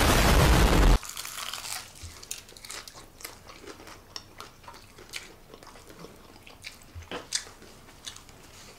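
A loud crunch as crispy fried chicken is bitten into, lasting about a second. It is followed by many small crackles of the crunchy coating being chewed.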